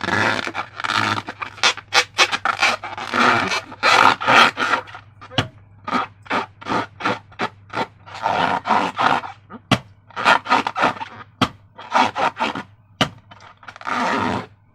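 Slime being squished and mixed: a run of irregular scraping strokes, about two a second.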